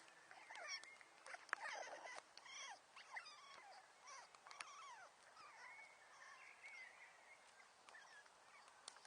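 Faint crackling of a wood fire, scattered sharp pops, together with many short chirps that rise and fall in pitch.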